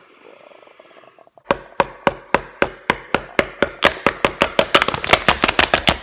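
A bottle tapped over and over in sharp knocks, starting about a second and a half in at about four a second and quickening to about six or seven a second.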